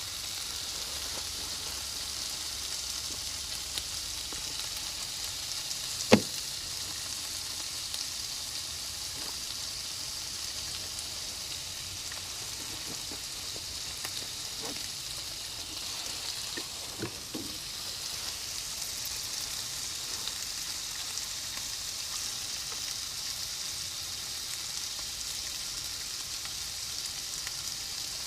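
Bacon sizzling steadily in a frying pan. A single sharp knock sounds about six seconds in, and a few fainter clicks follow later.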